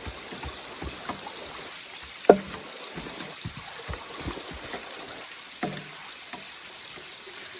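Steady rain hiss with irregular knocks and thumps; the loudest is a sharp knock about two seconds in.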